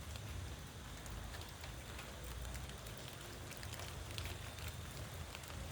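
Steady rain falling on leaves, with scattered ticks of individual drops and a low rumble underneath.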